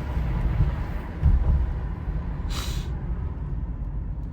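A 1992 Mercedes 500SL with its M119 V8 on the move: a steady low rumble from the engine and road. About two and a half seconds in there is a short hiss.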